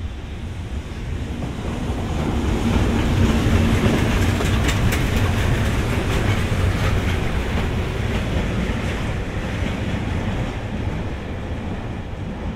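EF210 electric freight locomotive and its train of wagons passing close by: a rumble that swells to its loudest about three seconds in, with wheels clacking over rail joints, then slowly fades as the train moves away.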